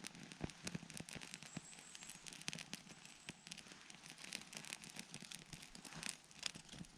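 Dry wood crackling and snapping: a dense run of irregular small sharp pops and clicks, a few of them louder than the rest.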